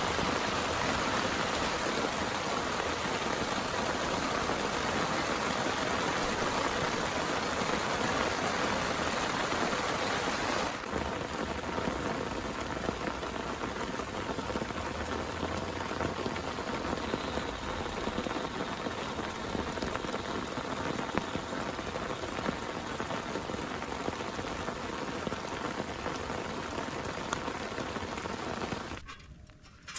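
Heavy rain falling steadily. It turns a little quieter about a third of the way in and drops away sharply near the end.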